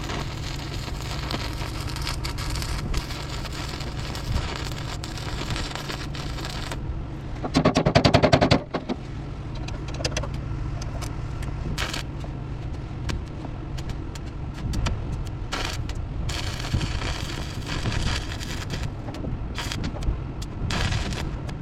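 Welding arc crackling as a repair plate is welded onto a truck fender, over a steady low hum. About seven seconds in there is a louder rattling burst lasting about a second, followed by scattered sharp clicks and crackles.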